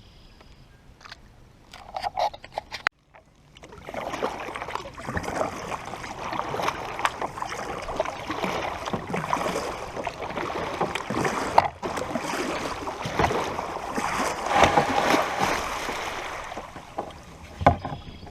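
Water splashing and sloshing around a kayak: a dense, uneven rush full of small clicks, starting about three and a half seconds in and fading near the end.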